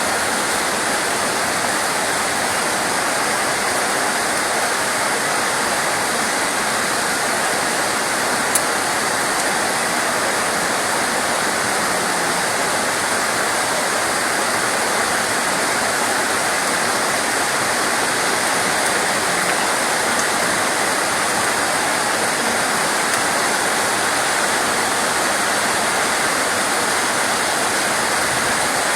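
Steady heavy rain, an even unbroken hiss of falling water, with a single faint click about eight and a half seconds in.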